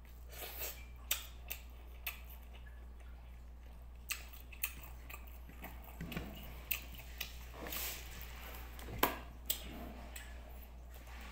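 Close-up eating sounds: chewing a mouthful of rice and corned beef, with scattered sharp mouth clicks and smacks a second or so apart. Near the end, drinking from a plastic water bottle.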